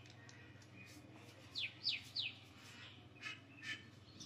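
Small bird chirping: three quick, downward-sliding chirps about one and a half seconds in, then two short chirps near the end, faint over a low steady room hum.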